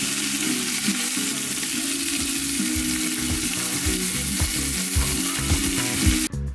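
Fish sizzling as it fries in a pan: a steady hiss of hot oil, with background music underneath. The sizzle cuts off just before the end.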